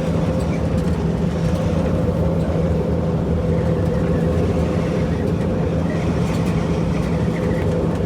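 5.9-litre Cummins inline-six diesel in a 1976 Dodge W600 Power Wagon tow truck, running with a steady, even drone.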